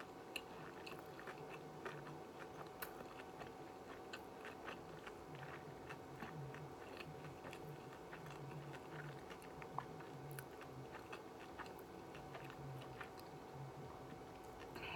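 Close-up chewing of a shrimp tempura sushi roll with the mouth closed: soft, rhythmic mastication with many small wet mouth clicks. A faint steady hum sits underneath.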